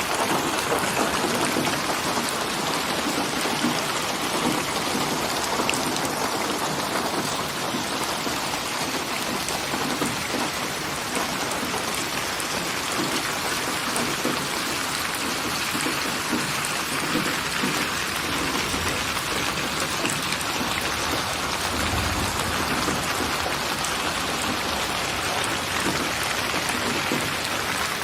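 Steady, heavy rainfall, a dense even patter of drops on surfaces, with a low rumble of distant thunder swelling about two-thirds of the way through.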